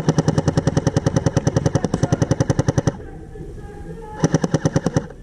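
Airsoft electric M4 carbine replica with electric recoil firing on full auto: a long rapid burst of about three seconds, then after a pause of about a second a shorter burst.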